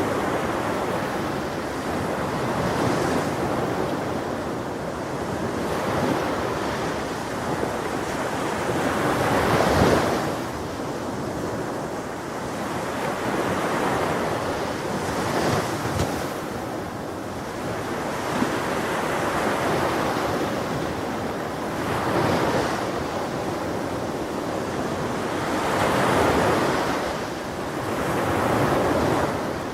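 Ocean waves breaking on a shore, a continuous rushing surf that swells and recedes every few seconds, loudest about ten seconds in. Wind rumbles on the microphone underneath.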